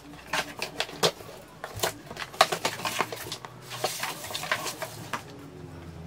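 Irregular light clicks, taps and rustles of a newly bought item and its box being handled.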